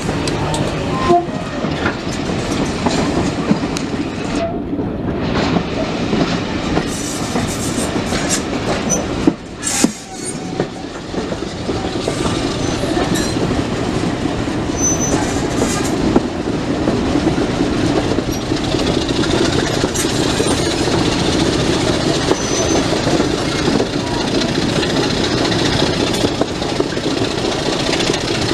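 Heritage railway train running along the line: a steady rumble of wheels on track with scattered sharp clicks.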